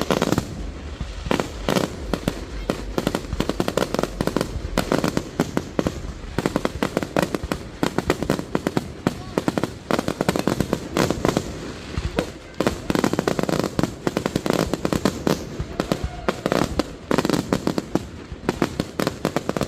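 Fireworks going off in quick succession: many sharp bangs and crackles overlapping without a break.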